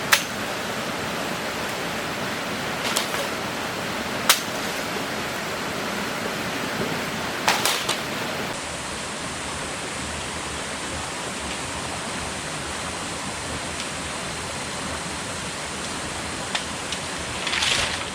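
Steady rushing noise of water, like falling rain or a flowing stream, with a few short sharp knocks or snaps scattered through it.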